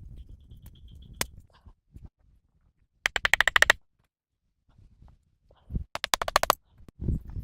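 A single sharp click, then two short runs of rapid clicking knocks, each under a second long, about three and six seconds in.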